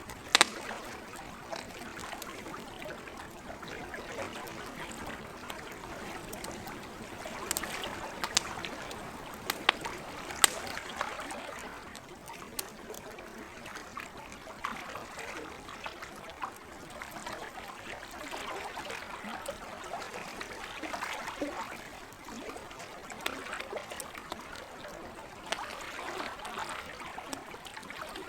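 Campfire crackling, with scattered sharp pops, over the steady gentle trickle and lapping of lake water.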